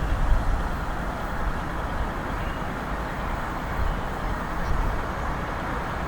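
A train running through the station: a steady low noise with no horn or distinct engine note.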